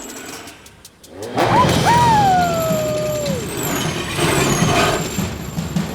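Cartoon sound effects of a ride down a zip line: a whirring rush starts about a second in, with a long pitched cry that jumps up and then slowly slides down, and high wavering squeals a little later.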